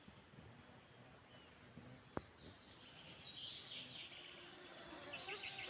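Faint birdsong: short chirping phrases from about three seconds in and again near the end, with one sharp click a little past two seconds.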